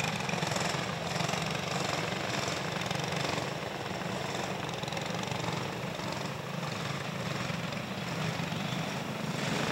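Small engines of a field of cage dirt go-karts running steadily together, the pack circulating at caution pace just before the green flag.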